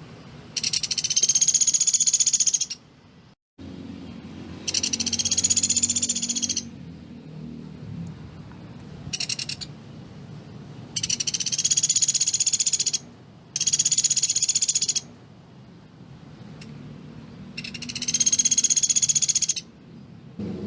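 A pelatuk beras, a small woodpecker, giving its rapid, dense rattling trill. There are six bursts of one to two seconds each, high-pitched and slightly arched in pitch, separated by short pauses.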